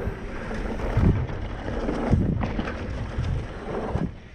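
Wind rushing over the microphone as a mountain bike rolls along a dirt trail, with irregular thumps and rattles as it goes over bumps.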